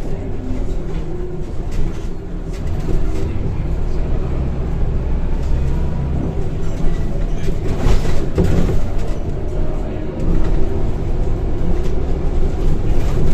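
The engine and ZF automatic gearbox of a Scania K230 single-deck bus, heard from inside the saloon while the bus is on the move. It makes a steady low drone over road noise, with body rattles and knocks about two-thirds of the way through and again near the end.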